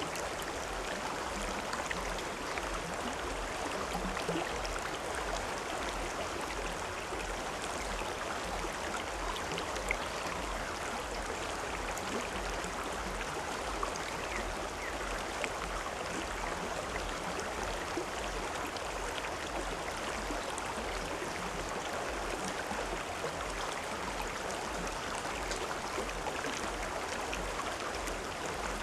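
River water flowing steadily, an even rushing with a few small splashes.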